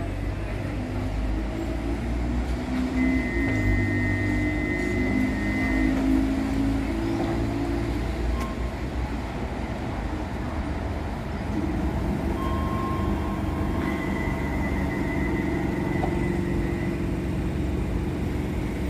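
Docklands Light Railway train pulling in, its motor whine falling in pitch as it slows to a stop, then the standing train humming steadily.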